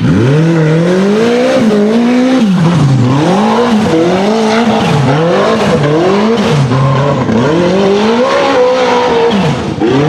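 Turbocharged RZR hill-climb buggy's engine revving hard and lifting off over and over, its pitch rising and dropping about once a second as it works up the course.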